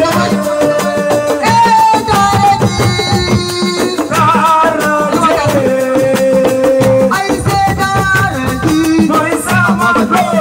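Senegalese assiko band music playing loudly, with dense, fast percussion under a melody that bends in pitch.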